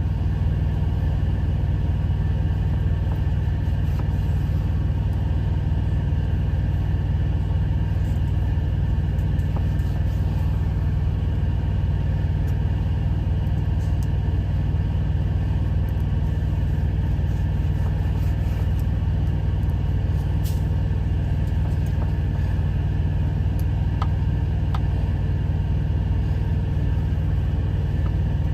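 Steady low rumble of an idling semi-truck engine, heard from inside the cab, unchanged throughout, with a few faint clicks.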